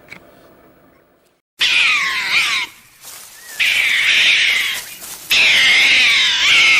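An animal's calls: three long, high-pitched, wavering cries that begin abruptly about a second and a half in, with short pauses between them.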